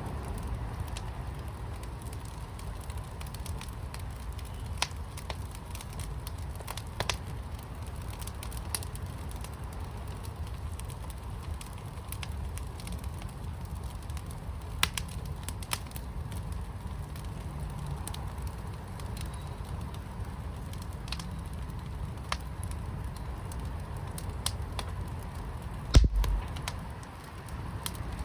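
Wood fire burning in a fire pit: scattered sharp crackles and pops over a steady low rumble, with one louder thump near the end.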